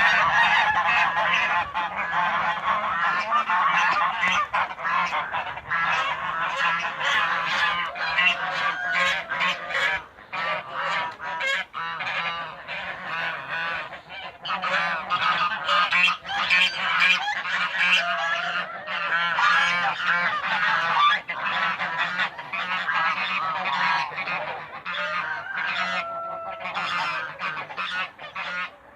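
A large flock of birds calling without pause, many calls overlapping into one dense chorus.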